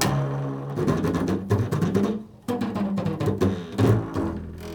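Improvised notes on a prepared guitar with pens wedged in its bridge: a run of plucked and struck strings at an irregular pace, each sharp attack followed by a short, low, muted ringing tone.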